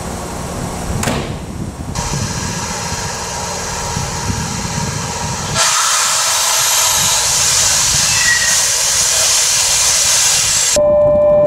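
Electric train running through a station with rumbling wheel-on-rail noise. About halfway in, a loud rushing hiss starts suddenly. A steady tone begins just before the end.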